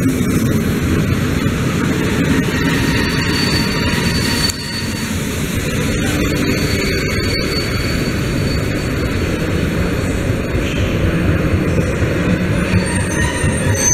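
Electric train rolling along a station platform: a steady, loud rumble of wheels on rails. After a brief dip about four and a half seconds in, the sound is a PKP Intercity ED160 (Stadler Flirt) electric multiple unit pulling out.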